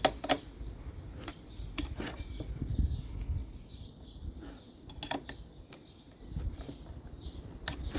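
Scattered clicks and knocks of hand tools and engine parts being handled and set down, with low handling rumbles between them. A high thin whistle glides down and holds for about two seconds, then sounds again near the end.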